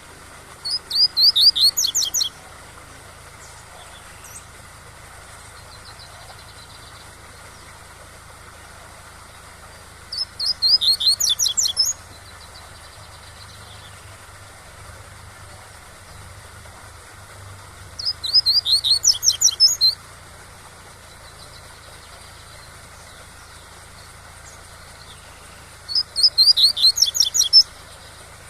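Double-collared seedeater (coleiro) singing its tui-tui song: four phrases of rapid, evenly repeated high notes, each about two seconds long and spaced roughly eight seconds apart, over a steady waterfall noise.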